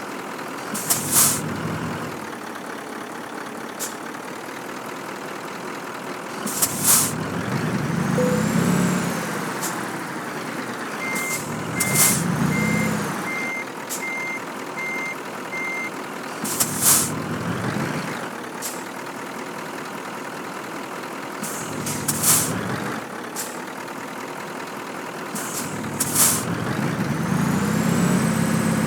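Scania truck creeping and manoeuvring: the engine rises and falls in short pulls, with a sharp air-brake hiss about every five seconds. A reversing alarm beeps about once a second in the middle.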